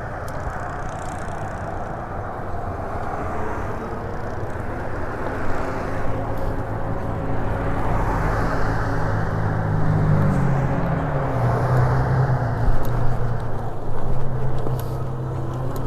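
A motor vehicle engine running close by over wind and road noise, its pitch dipping and shifting about ten seconds in.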